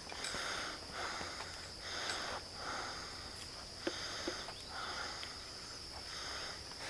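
Insects keep up a steady high-pitched drone, while soft rustling swishes come at a regular pace, roughly once or twice a second. Two small clicks fall about halfway through.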